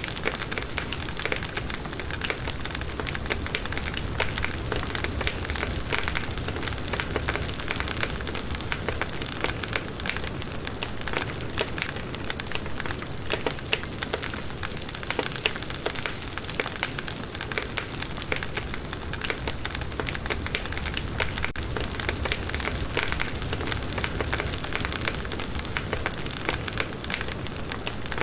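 Campfire of split firewood burning, with a dense, continuous crackling and many small sharp pops.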